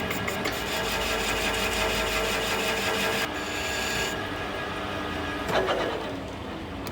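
Metal lathe running as it turns a steel machinery pin, a steady mechanical hum that changes abruptly about three seconds in and again a second later, with a brief louder clatter near the end.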